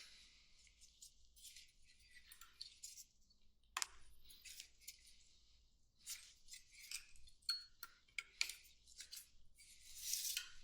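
Faint scattered clinks and clicks of small metal parts and hand tools as a Honda Magna's carburetor bank is taken apart, with one sharp click about four seconds in.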